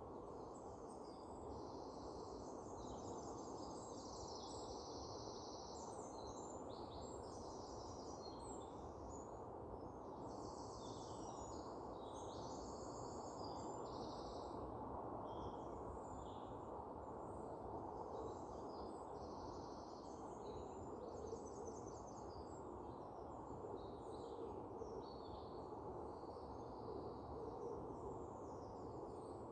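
Outdoor nature ambience: many small songbirds give high, quick chirps and trills of varied pitch throughout, over a steady low background hiss.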